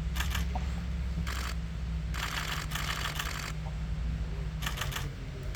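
Camera shutters firing in rapid continuous bursts, about five bursts from a fraction of a second to over a second long, the longest in the middle, over a low steady rumble.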